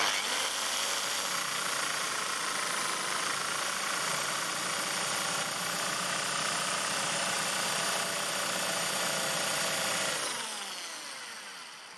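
Electric drill running steadily, its blunt, asymmetric twist bit boring slowly into wood and smoking its way through. About ten seconds in, the motor is released and spins down with a falling whine.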